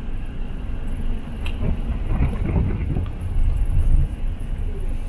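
Steady low rumble of road traffic, with wind on the microphone.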